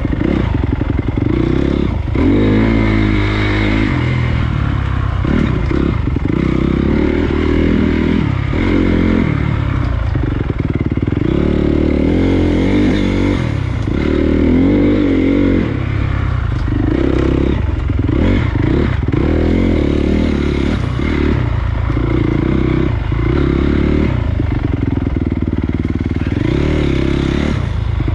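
Honda CRF250 dirt bike's single-cylinder four-stroke engine under way on a trail. The throttle is opened and closed every second or two, so the engine note rises and falls repeatedly.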